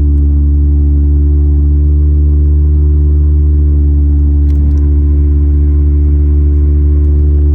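Straight-piped 2.4-litre four-cylinder of a 2004 Honda Accord with a cold air intake, droning loudly and steadily at constant engine speed while cruising.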